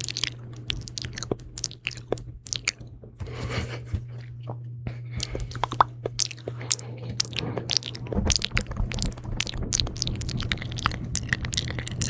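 Close-miked ASMR mouth sounds: wet, sticky clicks and smacks in quick, irregular succession, over a steady low hum.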